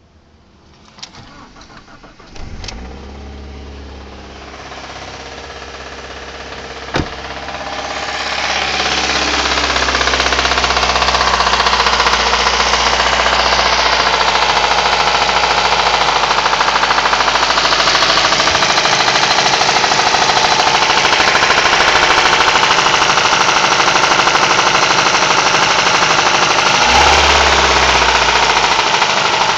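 Alfa Romeo 156 Twin Spark four-cylinder engine: a few clicks, then it starts and runs with a steady low hum. From about eight seconds in a loud, dense rattling knock builds and holds, the noise the owner tags as cam or knock.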